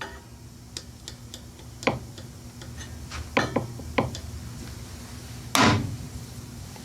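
Scattered metal clicks and knocks of hand tools and small engine parts being handled, with one louder knock about five and a half seconds in, over a low steady hum.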